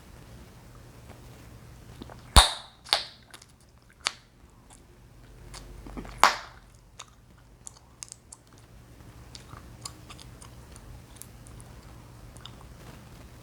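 Chewing gum popping loudly in the mouth. There are two sharp pops close together about two seconds in, a smaller one around four seconds and another loud pop around six seconds. Soft chewing clicks and smacks come in between.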